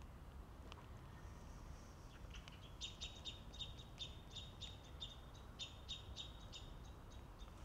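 A songbird chirping faintly: a fast run of short, high, repeated notes, about four or five a second, starting about three seconds in.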